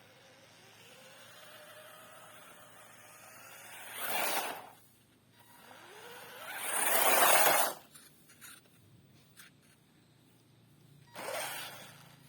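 RC drift car driving, its motor giving a faint whine that rises and falls. Three loud rushing surges of noise come with it: one about four seconds in, the loudest around seven seconds in, and a short one near the end.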